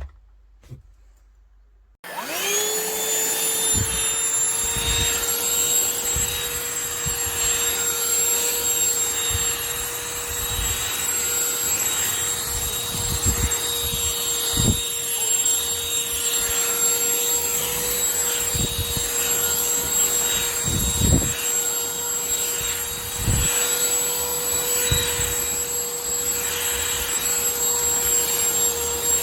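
Shark CH950UKT handheld cordless vacuum cleaner switched on about two seconds in. Its motor whine climbs quickly and settles to a steady pitch, with scattered irregular low bumps as it runs.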